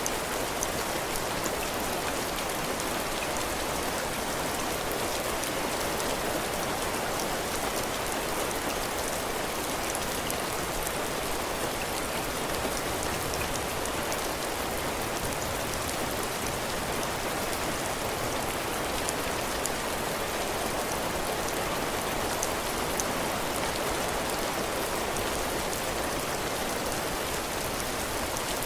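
Heavy rain falling steadily on a cabin porch, drops pattering on the roof and the ground in a dense, even hiss with fine drop ticks.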